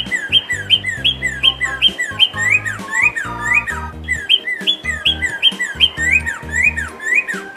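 Bird chirping in rapid, evenly repeated short chirps, about three a second, over children's background music with a plodding bass line.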